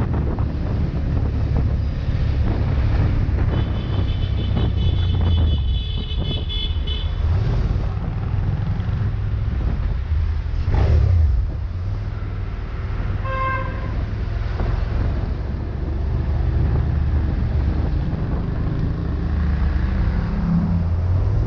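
Steady road and wind rumble of a car driving in traffic, with a vehicle horn honking once for about a second around 13 seconds in. A high, steady tone sounds from about 4 to 7 seconds in, and there is a brief louder surge near 11 seconds.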